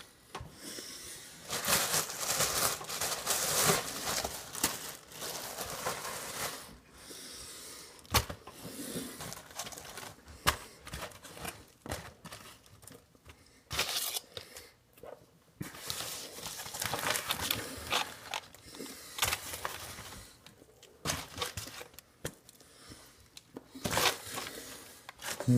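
Close-up eating noises: a man chewing and smacking big mouthfuls of burger fast. In between are irregular crinkling and tearing noises.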